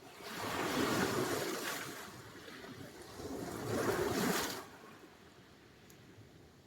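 Sea surf: two waves surge in and wash up the shore, one after the other, the second falling away quickly. A low wash of water follows.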